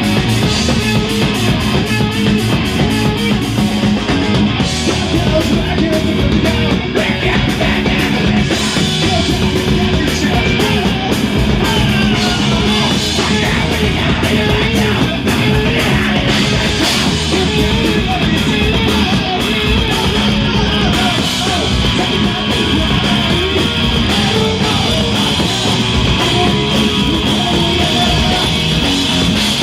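Rock band playing live: electric guitars and a drum kit, loud and dense with no break.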